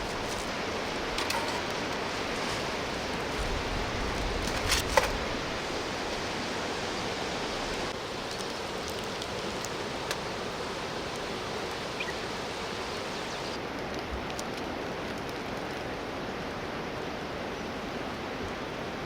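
Steady rushing of a flowing river. A few sharp clicks cut through it, loudest about five seconds in.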